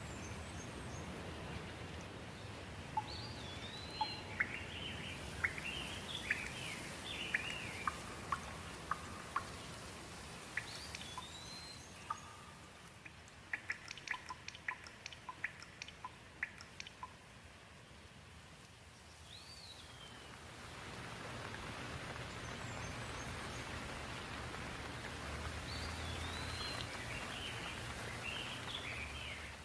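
Rain falling steadily while birds call in short clusters of chirps and whistles, with a run of quick sharp ticks about halfway through. The rain thins briefly past the middle and then picks up again.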